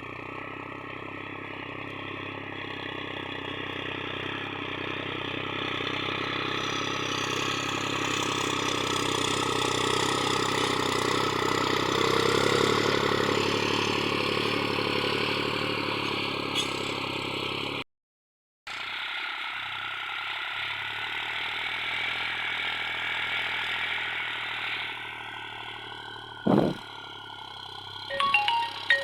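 New Holland 3630 tractor's diesel engine running steadily under load while pulling a harrow, with some clatter, growing louder over the first dozen seconds. It cuts out for a moment after about two-thirds, then runs on; a short swoosh comes late, and chiming background music starts near the end.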